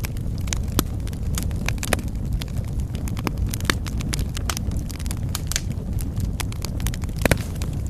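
Wood fire burning in a fireplace: a steady low rumble of flames with irregular sharp crackles and pops throughout, one louder pop near the end.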